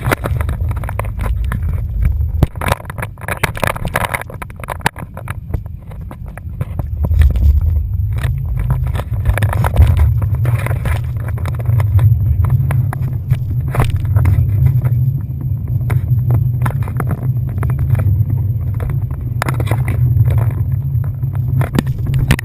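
Boat underway: a steady low rumble with many short, sharp knocks through it.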